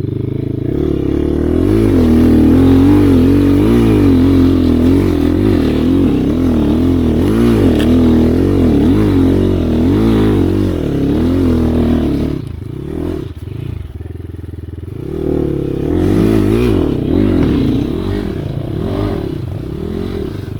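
Off-road motorcycle engine revving hard under load, its pitch surging up and down constantly. About twelve seconds in it eases off, then revs up again a few seconds later.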